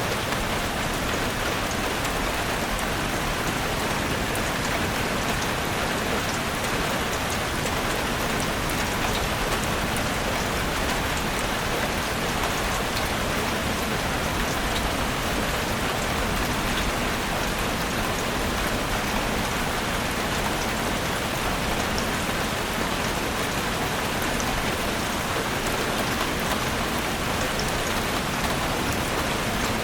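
Steady rain falling in a forest: an even hiss of rain with many small drop ticks on leaves, unchanging in level throughout.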